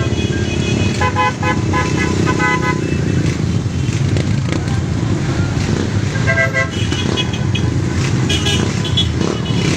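Motorcycle and tricycle horns beeping in quick short toots, in two bursts, over the steady rumble of the riders' engines.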